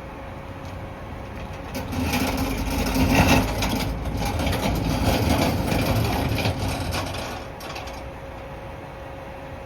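Mack MRU McNeilus front-loader garbage truck running steadily, then, about two seconds in, a loud rumbling, crackling stretch of about five seconds as the truck's front-loading cycle empties a container into the hopper.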